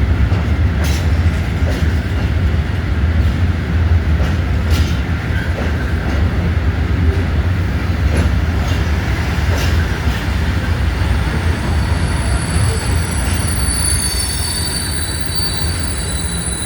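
Train running on the rails with a steady low rumble and occasional sharp wheel clicks; high-pitched wheel squeal sets in over the last few seconds.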